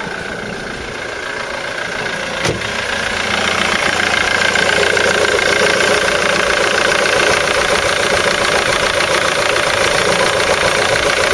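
Ford Mondeo Mk3's four-cylinder diesel engine idling with a rattle, which the owner puts down to the crank pulley and tensioner. It gets louder about four seconds in and then holds steady, with a single knock about two and a half seconds in.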